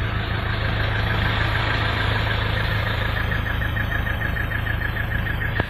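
Mahindra Scorpio turbodiesel engine idling steadily just after being started, with a fast, even clatter. There is a single click near the end.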